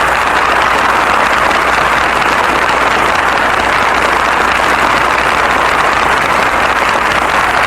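Studio audience applauding steadily after the closing music of a radio broadcast, heard through a low, steady hum in the old recording.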